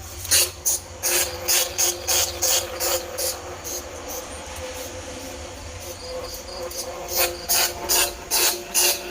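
Harsh, rasping squeaks of a bandicoot rat, repeated about three times a second in two runs with a quieter stretch of a few seconds between them. This is a call played to lure rats, over faint insect chirring.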